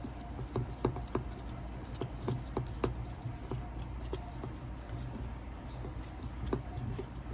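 Irregular light clicks and taps of small metal parts and tools being handled while a power polisher is taken apart, over a steady low hum.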